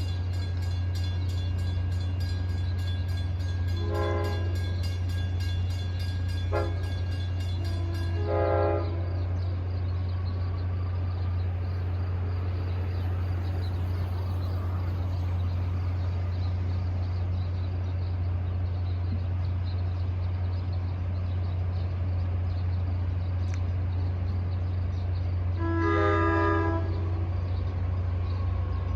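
Long Island Rail Road diesel push-pull train with a steady low drone, sounding short horn blasts: one about four seconds in, two more around seven and eight and a half seconds, and another near the end.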